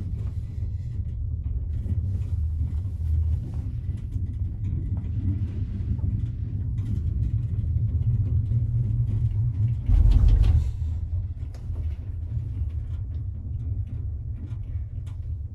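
Steady low rumble inside a gondola cabin riding up its cable, with one short, louder low thump about ten seconds in.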